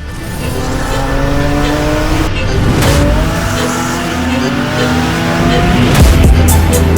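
Car engine accelerating hard, its pitch rising steadily, breaking about two and a half seconds in and climbing again, over background music.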